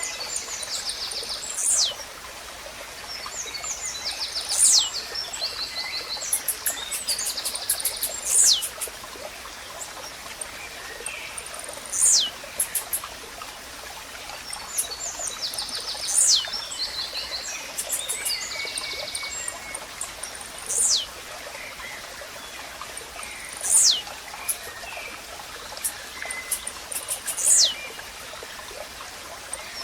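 A blue-black grassquit (tiziu) singing over and over, short sharp notes that drop steeply in pitch every three to four seconds, with rapid high trills from other birds in between. A stream runs steadily underneath.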